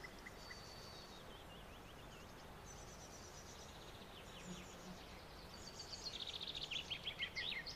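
Small birds singing with high chirps and rapid trills over a faint background hiss, the song growing louder in the last two seconds or so.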